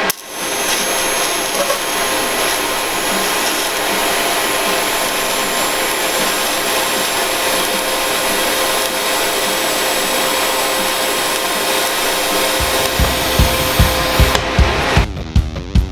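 A power tool running steadily: a dense, even noise with a thin high whine. Near the end, heavy rock music with a pounding beat comes in and takes over.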